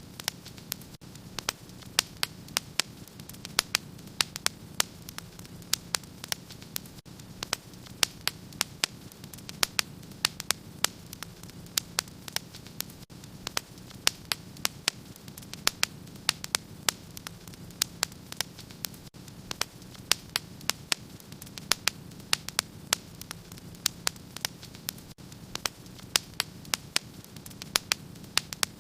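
Wood fire in a fireplace crackling, with frequent sharp pops and snaps, several a second, over a steady low rumble and hiss of the flames.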